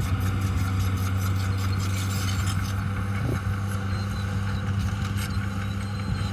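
Dump truck engine running steadily with a low, even drone.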